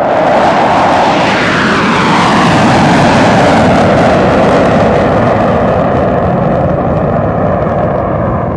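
Jet aircraft making a low pass: loud engine noise whose pitch falls as it goes by, then slowly fades.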